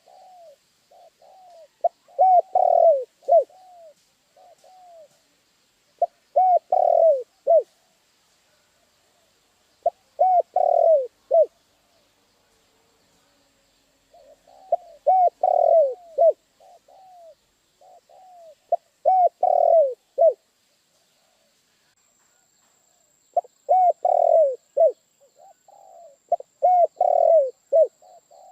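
Spotted dove (tekukur) cooing: a phrase of several short, arching coos, repeated about every three to four seconds.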